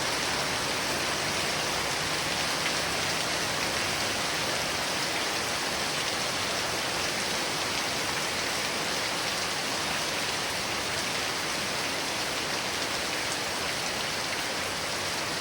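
Heavy rain falling steadily, an even hiss with no distinct drops, thunder or gusts standing out.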